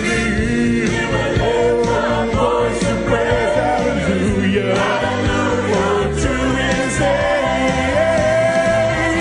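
Gospel praise team and choir singing with a live band, bass and drums keeping a steady beat under the voices.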